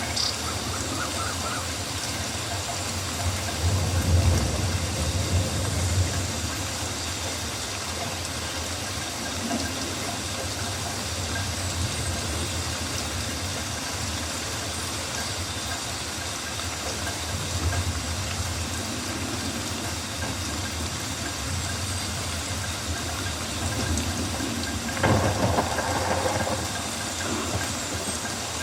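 Rainforest rain ambience: a steady hiss of rain falling on foliage with a low rumble underneath, swelling briefly a few times.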